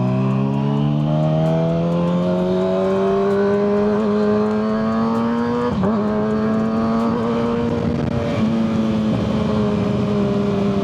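Kawasaki ZX-6R 636 inline-four through a Yoshimura full exhaust under way, revs climbing steadily, with a brief dip in revs about six seconds in, then settling to steady cruising revs.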